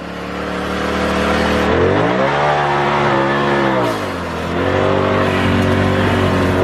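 Turbocharged side-by-side UTV engine revving under load. Its pitch climbs about two seconds in and holds high, then drops back around four seconds in to a steadier run.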